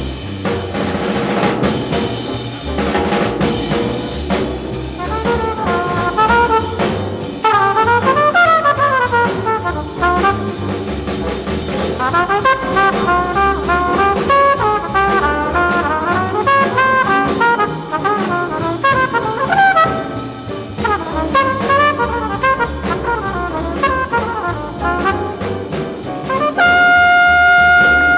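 Bebop jazz sextet playing live: a horn soloist plays fast running lines over piano, walking bass and drum kit, ending on a long held high note near the end.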